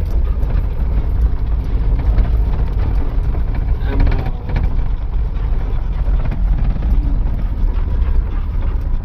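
Truck engine and road noise heard from inside the cab while driving, a steady low rumble.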